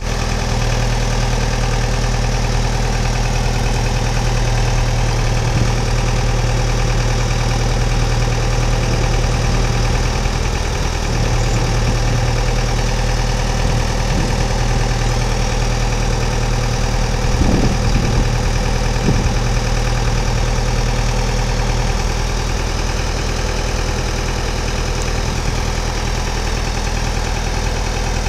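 Diesel engine of a Charlatte CBL 2000D conveyor belt truck idling steadily, with a brief low clatter about two-thirds of the way in.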